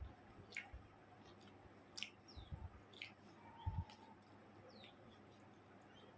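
Faint eating sounds of someone chewing chicken curry and rice: a few short, soft mouth clicks and smacks spaced a second or so apart.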